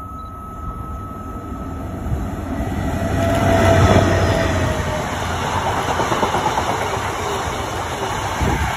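Freight train passing close by: the locomotive's engine noise swells to its loudest about four seconds in as it goes past, then the loaded flat wagons keep rolling by with the steady rumble of wheels on rails.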